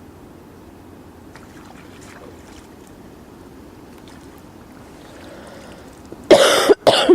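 A person coughs twice, loudly and in quick succession, near the end, over a faint steady outdoor background.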